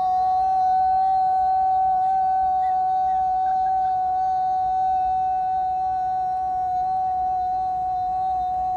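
A person's voice holding one long, steady, high note, the drawn-out end of a shouted "U-Haul!" cheer.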